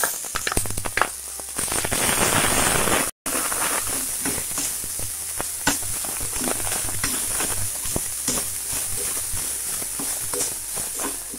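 Chopped onions sizzling and crackling in hot oil in a nonstick frying pan, stirred with a metal slotted spoon. The sound breaks off for a moment about three seconds in.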